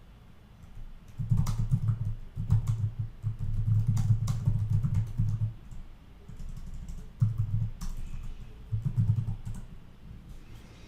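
Typing on a computer keyboard in several quick bursts of key clicks, with short pauses between them.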